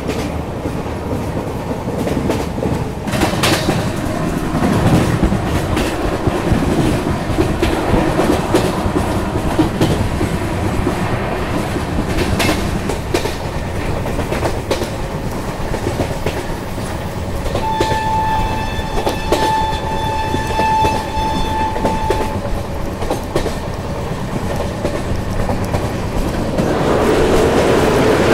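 An Indian Railways Shatabdi Express running at speed, heard from an open coach door: steady wheel-on-rail clatter and wind noise with irregular clicks over rail joints. About two-thirds of the way through, the train's electric locomotive sounds one steady horn blast of about five seconds. Near the end the running noise grows louder and deeper as the train runs onto a bridge.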